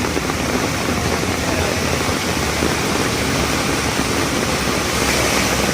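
Heavy rain noise together with a vehicle engine running, a loud, steady mix with no breaks.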